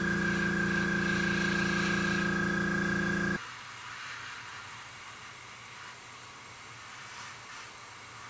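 An air compressor's motor hums loudly for about three and a half seconds, then cuts off abruptly. Under and after it, an airbrush hisses steadily as it sprays paint.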